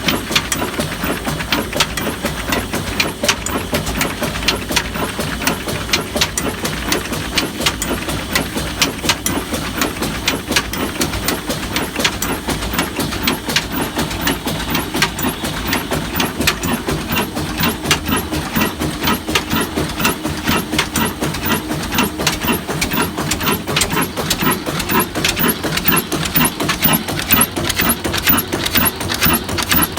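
Old stationary diesel engine running, with a rhythmic knocking beat over a low rumble that grows more even toward the end.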